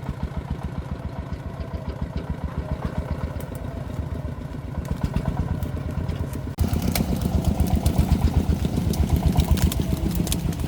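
Single-cylinder diesel engine of a công nông farm vehicle running with a rapid, even thudding beat. About six and a half seconds in it suddenly becomes louder and harsher, with added clatter.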